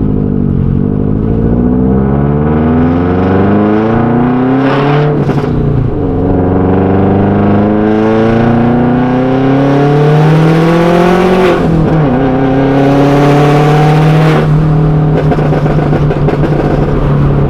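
2013 Subaru WRX's turbocharged flat-four, breathing through Tomei unequal-length headers, a catless downpipe and a Tomei catback, heard loud from inside the cabin while accelerating through the gears. The engine note climbs, drops at upshifts about five and twelve seconds in, climbs again, then holds steady near the end.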